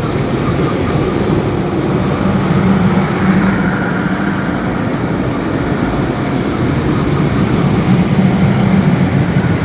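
Big air blowers at the drying stage of an automatic car wash, running with a loud, steady rushing roar that swells slightly a few times.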